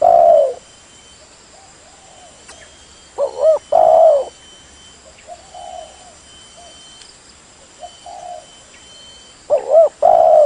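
Spotted dove cooing: a loud phrase of several rising-and-falling coos comes about every six seconds, once just at the start, once around three to four seconds in and once near the end, with fainter coos in between.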